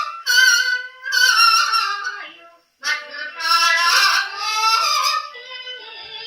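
A woman's voice singing a Japanese popular song with wavering vibrato, played from a 78 rpm shellac record on a gramophone. Phrases break off briefly about two and a half seconds in, then the singing resumes.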